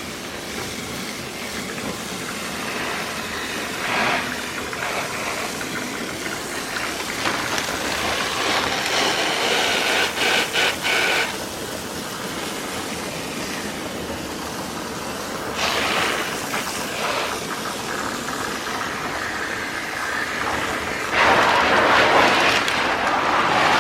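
Water spray rinsing foaming coil cleaner and dirt off a split-type air conditioner's indoor unit, a steady rushing that swells louder in several spells as the spray moves.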